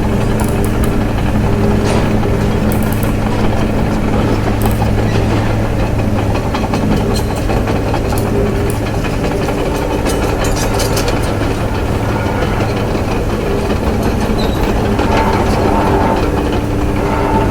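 A motor running steadily: a low, even hum with light clicks now and then. A higher tone joins in near the end.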